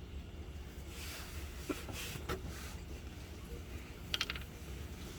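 A few light clicks and a quick run of ticks about four seconds in, from tools and fasteners being handled while the engine undercover's clips are undone, over some rustling and a faint low hum.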